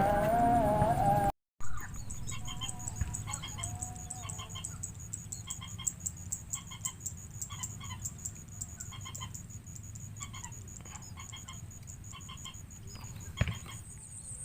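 A bird's short clucking calls, repeated steadily about every two-thirds of a second, over a steady high insect drone. There is a single sharp click near the end.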